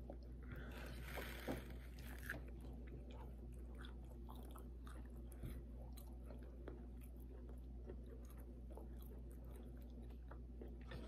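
Close-up eating sounds of fried pork chop being bitten and chewed: soft chewing with many small mouth clicks and a few crunches, over a steady low hum.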